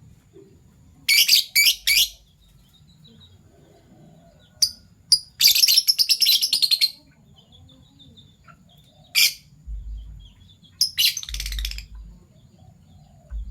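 Fischer's lovebirds chirping: short bursts of rapid, high-pitched chatter broken up by single sharp calls, with pauses between.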